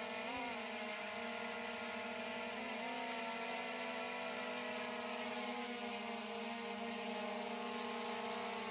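SJRC F22S 4K Pro quadcopter's propellers humming steadily in a hover, several pitches at once. The pitch wavers briefly about half a second in and again near three seconds in, as the motors adjust speed.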